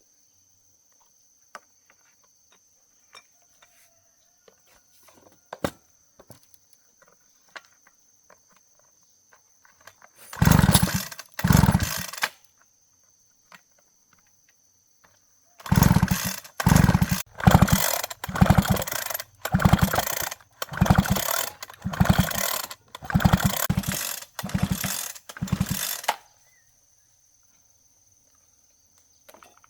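Chainsaw being pull-started by its recoil starter cord: light handling clicks, then two hard pulls, and after a pause a run of about eleven quick pulls of roughly half a second each. The engine does not keep running after the last pull.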